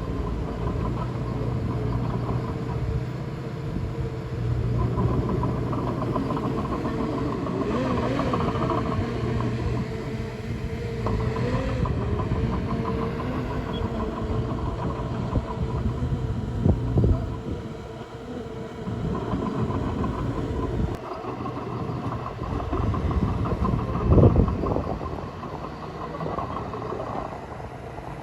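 Komatsu D20A crawler bulldozer working, its diesel engine running steadily with the pitch wavering up and down under changing load. Sharp metallic knocks come near the middle and again, loudest, later on.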